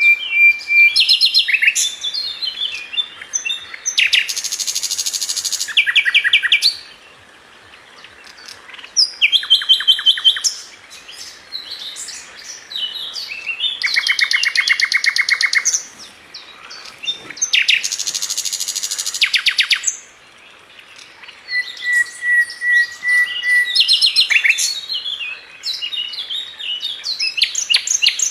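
A sikatan London flycatcher singing: phrases of varied high chirps and whistled notes alternating with fast, buzzy trills of rapidly repeated notes, with short pauses between phrases. A couple of phrases hold a steady whistle.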